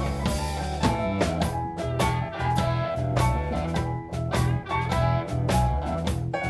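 Live blues band playing an instrumental passage between verses: guitar lines over bass and drums, with drum hits about twice a second.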